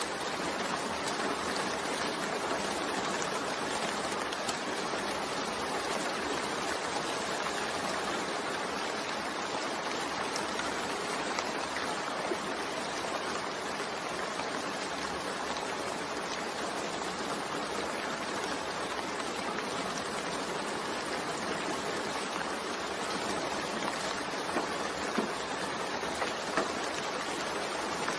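Steady rain falling, an even hiss with scattered drop ticks and a few louder drops near the end.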